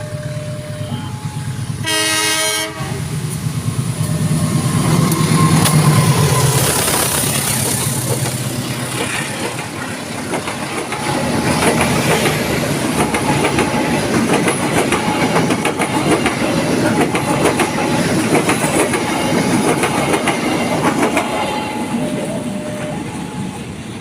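Level-crossing warning siren sounding in two alternating tones. A short train horn blast comes about two seconds in, then a train passes with wheels clattering over the rail joints while the siren keeps sounding underneath.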